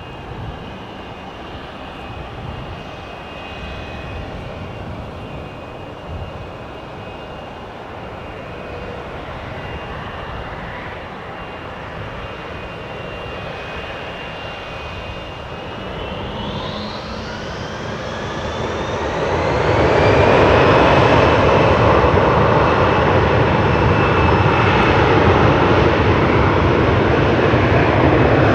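Embraer Legacy 650 business jet's twin Rolls-Royce AE 3007 turbofans: a steady whine at low power, then, about two-thirds of the way through, the whine rises in pitch as the engines spool up. A loud, steady jet rush then sets in and holds at high thrust.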